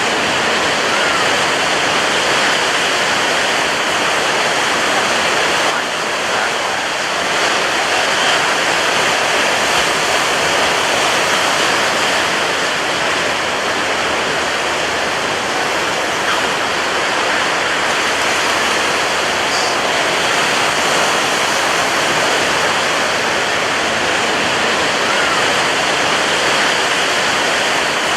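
Ocean surf breaking on a beach: a loud, steady wash of white water with only slight swells and no clear gaps between waves.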